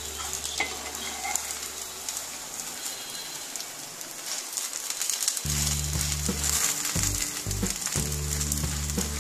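Thin egg-and-flour batter crepe frying in an oiled nonstick pan, with a steady sizzle while a metal spatula folds it over its filling. Low background music comes in about halfway through.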